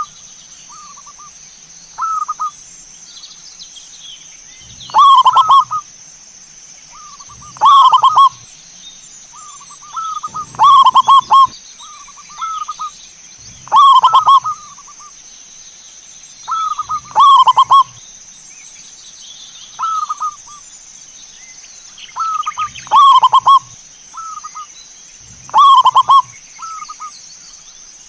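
Zebra dove (perkutut) cooing in repeated phrases, a loud phrase about every three seconds with softer short coos between.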